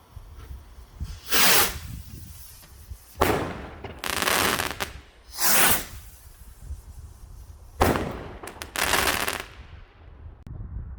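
Fireworks going off: about five loud hissing bursts in eight seconds, some starting with a sharp bang.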